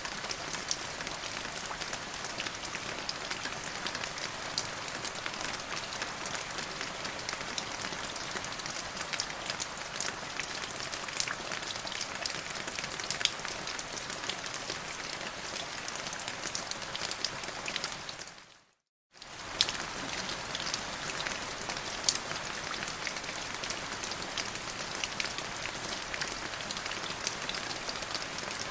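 Steady forest rain falling, a dense hiss with many individual drops ticking through it. About two-thirds of the way in it fades out for under a second and then comes straight back at the same level.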